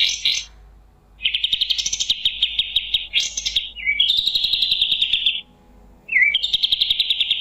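Kapas tembak songbird singing in long rapid trills of clipped chirps. A trill starts about a second in and runs to a louder burst. A buzzier sustained trill follows, then a brief pause. A short downslurred note leads into another fast trill near the end.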